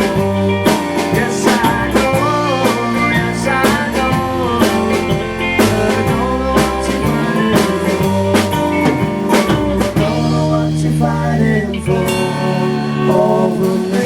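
Band music: guitar lines with bending notes over steady bass notes and a drum kit.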